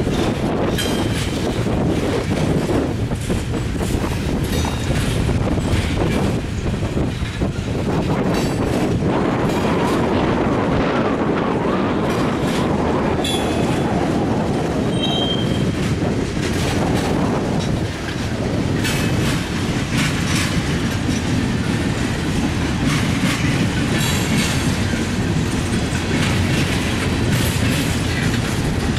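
Covered steel-coil freight cars rolling past, their steel wheels clacking steadily over the rail joints, with a few short wheel squeals.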